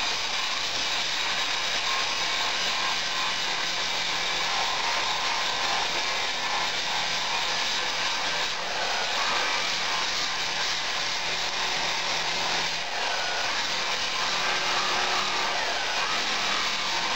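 Power grinder working steel, a steady grinding noise held throughout with slight dips.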